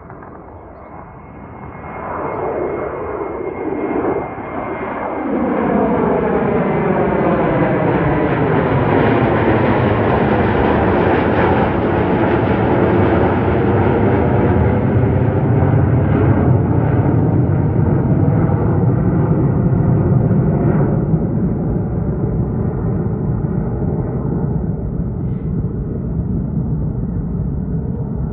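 Boeing 737-200's Pratt & Whitney JT8D low-bypass turbofans roaring as the jet passes by. There is a high whine early on, the roar builds over the first few seconds and peaks about ten seconds in, then the sound slowly fades to a low rumble.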